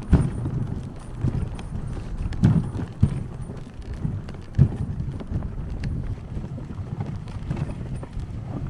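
Dog sled running over snow: a steady low rumble of the runners with irregular bumps and thumps as it jolts along.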